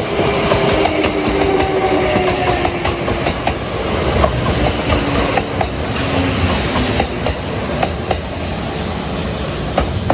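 Kintetsu electric train (1620 series coupled to a 2410 series) running past at close range: wheels clicking over rail joints, with a motor whine that drifts lower in pitch and fades over the first half.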